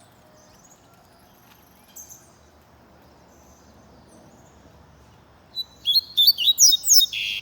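Coleiro (double-collared seedeater) singing: a few faint chirps, then, about five and a half seconds in, a loud run of quick, high notes.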